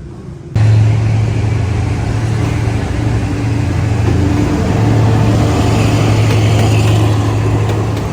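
Diesel locomotive engine running loudly with a steady low hum, starting abruptly about half a second in.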